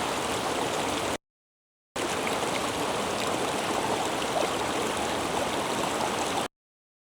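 Steady rushing water of a river cascade. It cuts out to dead silence for under a second about a second in, and again near the end.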